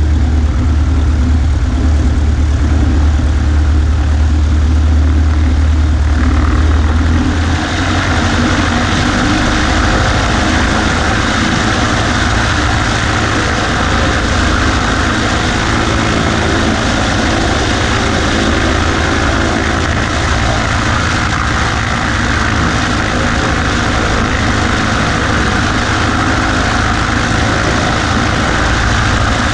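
Cessna 140A's engine and propeller running steadily, heard from the wing. About seven seconds in the deep hum drops away and a brighter rushing sound takes over and holds.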